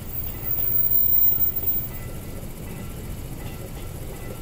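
Passenger train passing over a level crossing, its wheels rumbling on the rails and loudest about a second in. The crossing's warning bell rings faintly and repeatedly over it.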